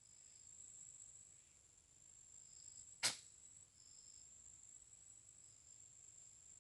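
Himalayan goral giving a single sharp, brief alarm snort about three seconds in, over a steady high-pitched insect drone.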